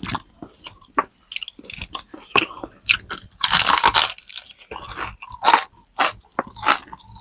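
Close-up eating sounds: crunching and chewing of crisp deep-fried pork skin, in a run of sharp crackles, densest for a moment about three and a half seconds in.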